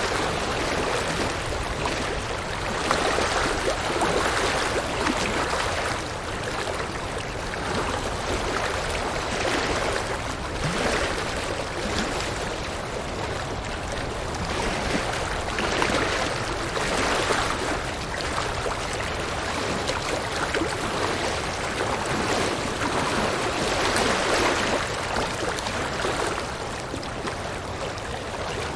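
River water rushing over rocks: a steady splashing, gurgling flow that swells and eases every few seconds.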